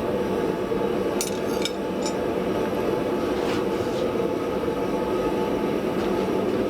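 Steady workshop roar with a few light metallic clinks about a second in.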